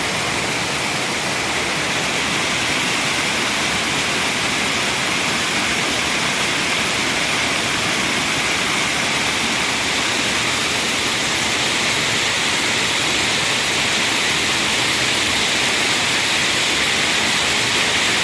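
Waterfall pouring: a steady, loud rush of falling water that grows slightly louder toward the end.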